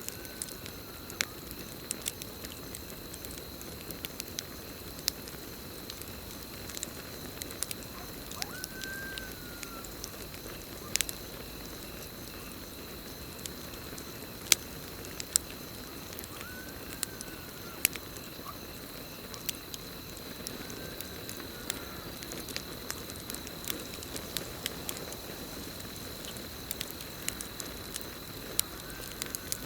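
Campfire crackling, with sharp pops scattered irregularly throughout, over a steady high cricket trill. A short call that rises and falls in pitch sounds five times.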